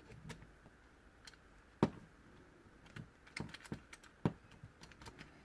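Irregular light clicks and taps of small metal parts and tools being handled while a steering lock and ignition barrel are taken apart, with two sharper clicks about two seconds and four seconds in.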